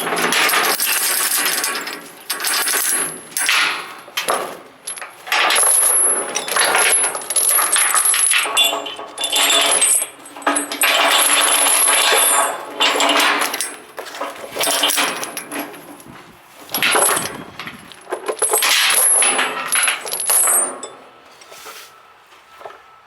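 Steel tie-down chain rattling and clinking in repeated irregular bursts as it is handled while securing an excavator on a trailer.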